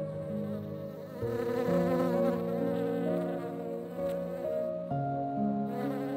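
Honeybee buzzing, a steady hum whose pitch shifts every second or so.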